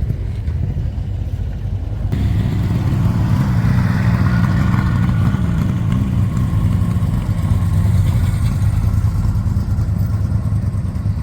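Motorcycle engine running steadily, its sound changing abruptly about two seconds in.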